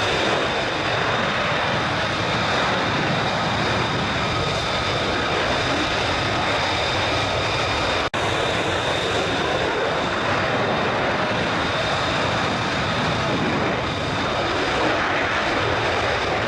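Fighter jet engines running steadily: a loud rushing noise with a high whine held on several steady pitches, broken by a momentary dropout about eight seconds in.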